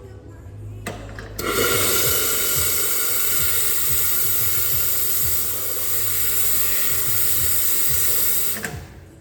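Water running hard from a tap in a steady rush, turned on about a second and a half in and shut off sharply near the end, over background music.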